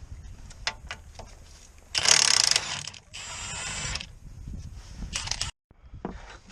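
Mechanic's tool work on a car: scattered metallic clicks, a loud rushing burst of about half a second around two seconds in, then a steadier, higher noise for under a second, and a few more clicks near the end.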